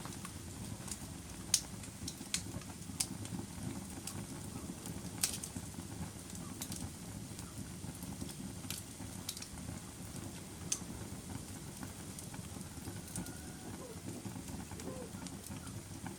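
Fire burning in a fireplace: a steady low rush of flames with sharp crackles and pops at irregular intervals, roughly one every second or two.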